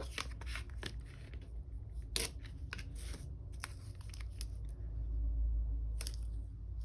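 Paper sticker sheets being handled and stickers peeled and pressed down: scattered short rustles and crinkles, with a low steady hum underneath.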